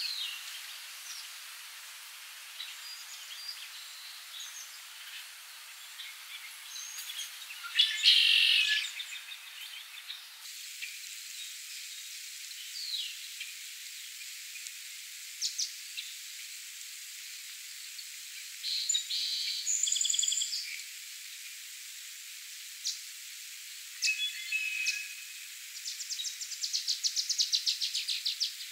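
Light spring rain falling on a pond, a steady soft hiss, with birds chirping and singing at intervals. The loudest burst of song comes about eight seconds in, and a fast pulsed trill starts near the end.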